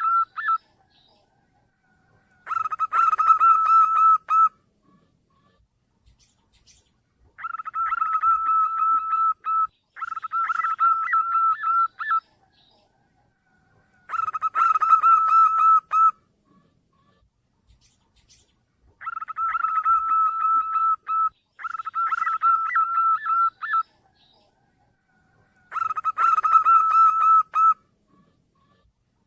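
Zebra dove (perkutut) lure call: rapid, pulsing cooing phrases about two seconds long, repeated seven times with short silent gaps between them.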